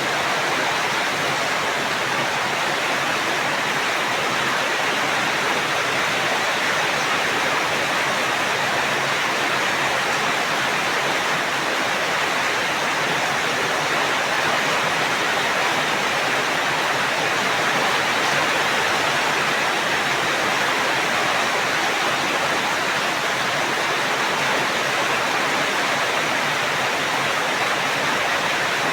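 Steady rainfall, an even unbroken hiss with no thunder or single drips standing out.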